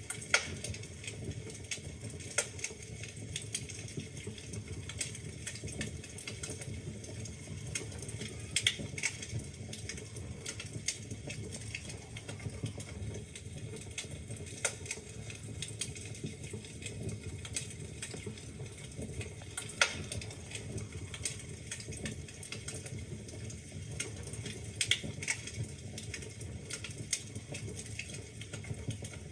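Wood fire burning in a fireplace: a steady low rumble of flames with constant irregular crackling and snapping of the logs, and a few sharper, louder pops.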